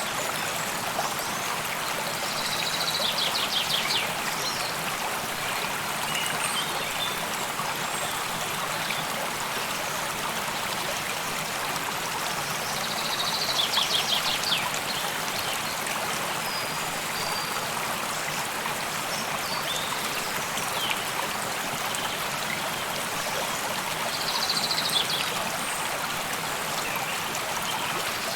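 Steady rush of a flowing stream. A bird's short trill of rapid notes sounds over it about every ten seconds, four times, with a few fainter chirps between.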